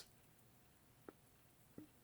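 Near silence: room tone in a pause between spoken sentences, with a faint click about a second in and another near the end.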